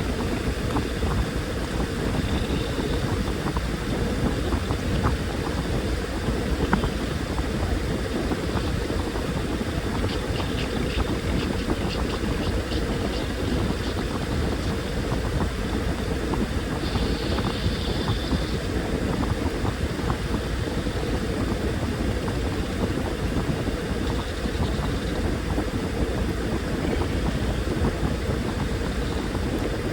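Washing machine running: a steady mechanical hum and rumble with no pauses, with a few faint light ticks partway through.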